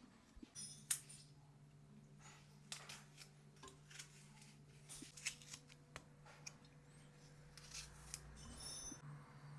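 Faint scattered clicks and light taps, a few with a short bright ring, over a low steady hum.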